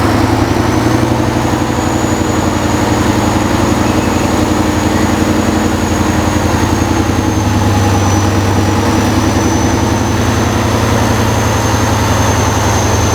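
Heavy truck's diesel engine running steadily with a fast even firing pulse, and a thin high whistle holding over it.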